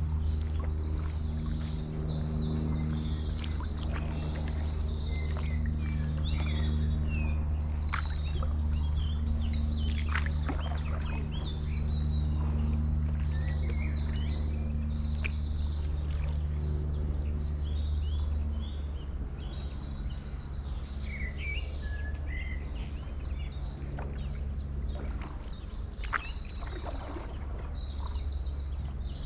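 Several small songbirds singing, with repeated rapid trills and scattered chirps, over a steady low hum that drops in level about two-thirds of the way through.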